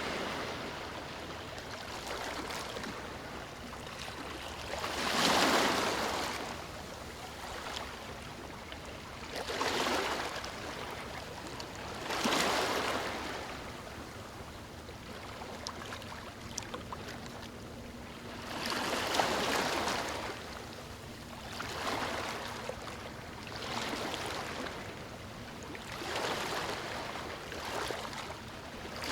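Ocean surf breaking on a beach: a steady hiss of water with about eight louder surges as waves break and wash in, a few seconds apart.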